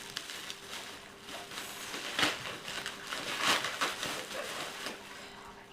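Packaging from a meal-kit box rustling and crinkling as it is handled and pulled out, with two louder crinkles about two and three and a half seconds in.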